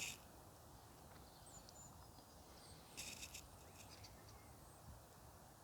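Near silence of garden ambience, with a few faint high bird chirps and a brief soft rustle about three seconds in.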